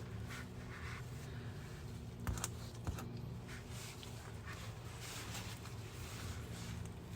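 A few light clicks of tools and parts being handled, the sharpest two a little over two seconds in and about half a second later, over a steady low hum.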